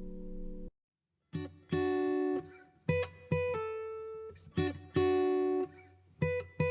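Acoustic guitar music. A held chord cuts off suddenly less than a second in, and after a short silence single plucked notes follow one after another.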